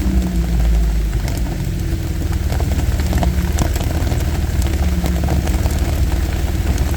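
Off-road vehicle's engine running at low speed, heard from inside the cab, with scattered light ticks and knocks.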